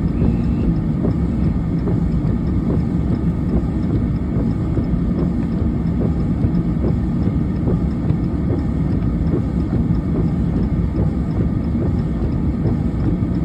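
Steady low rumble with faint, irregular ticks scattered through it.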